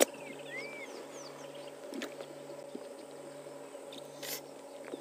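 Birds chirping and calling in the bush: two arched whistled notes near the start, then scattered faint chirps, over a steady low hum.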